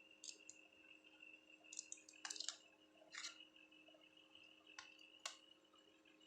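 Faint scattered clicks and short scrapes of small tools and parts being handled during hand work on a 1:64 diecast model car, over a faint steady electrical hum.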